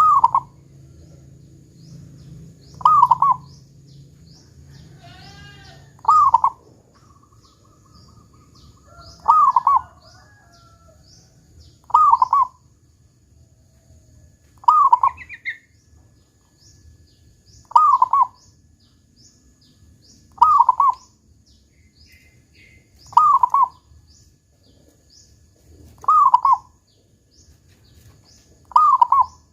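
Zebra dove (perkutut) singing, its loud short cooing phrase with the deep "kung" note repeated about every three seconds, eleven times. Faint high chirps of small birds and a thin steady high whine run beneath.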